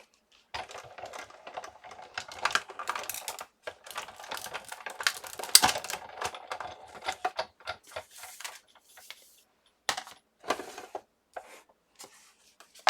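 Cardstock and die-cutting tools being handled on a work surface: a busy run of small clicks, taps and paper rustles, thinning to a few separate clicks in the last few seconds.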